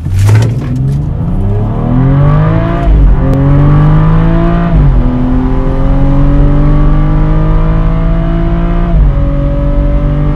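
The 2015 BMW 435xi's turbocharged straight-six, heard from inside the cabin, accelerating hard through the gears. The engine note climbs, falls back at each of three upshifts about 3, 5 and 9 seconds in, then runs steady. It opens with a short noisy burst.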